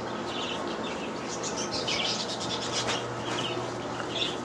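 Small cage birds chirping, many short high chirps overlapping, over a steady low hum.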